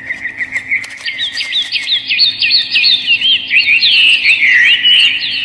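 Many small birds chirping rapidly and overlapping in a dense chorus that thickens about a second in.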